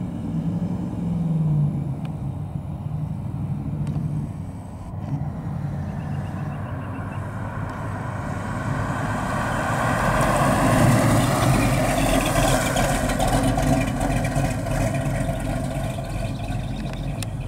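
1971 Plymouth Barracuda's 440 cubic-inch big-block V8 running as the car drives toward and past, growing steadily louder over the second half as it closes in.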